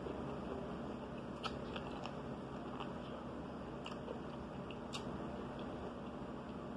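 Close-up chewing of a mouthful of corn on the cob, with soft crunching and a few sharp wet mouth clicks about once a second.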